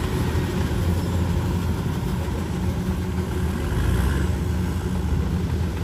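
Rice combine harvester running steadily in the field, its engine a low, even drone.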